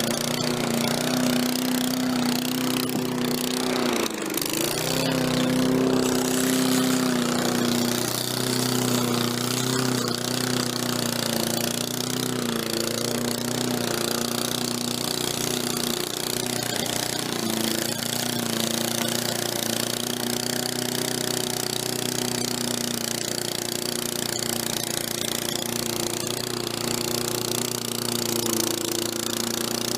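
Walk-behind lawn mower's small engine running steadily while it is dragged and pushed through snow. About four seconds in it briefly bogs down, dropping in pitch, then picks back up.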